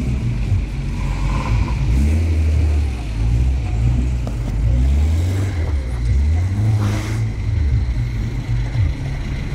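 Car engine running at low revs, its pitch rising and falling as it is driven.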